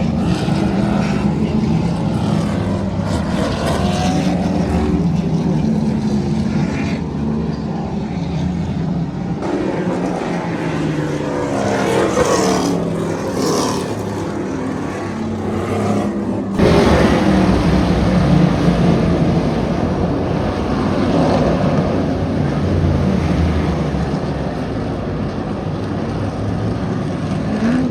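The field of TA2 race cars going by at racing speed at the start of a wet race, V8 engines rising and falling in pitch as each car passes, with tyre spray hissing off the soaked track. The sound jumps louder about two-thirds of the way through.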